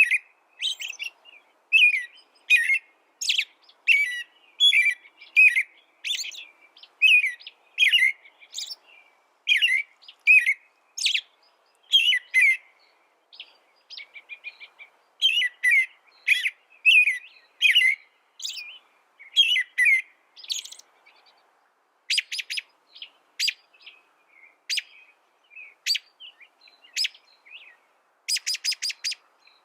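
Small songbird singing a long, lively song of short high chirps and warbled notes in quick phrases. Near the end it breaks into a fast run of sharp, rapidly repeated notes.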